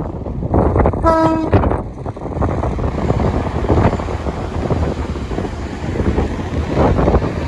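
Two coupled Class 185 diesel multiple units passing close by, with one short single-note horn blast about a second in. Heavy wind buffeting on the microphone rumbles underneath throughout.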